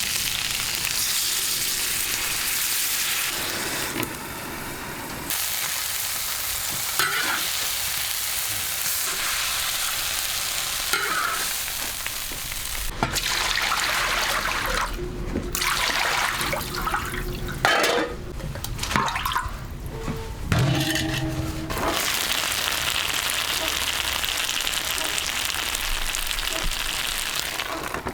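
Food sizzling as it fries in a hot pan and is stirred, the sizzle changing abruptly several times across edits.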